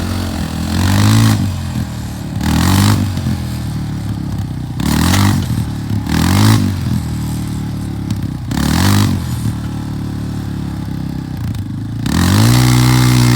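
A Yamaha's engine revving in about six short bursts, then holding a longer, higher rev near the end, as it strains to pull the engine out of a Polaris.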